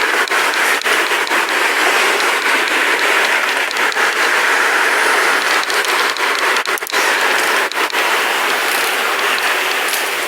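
Bicycle on the move: steady hiss of the tyres rolling, with scattered rattling clicks from the bike.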